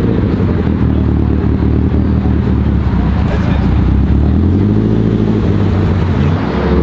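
Car engine running close by, a deep, steady rumble whose pitch rises briefly about five seconds in.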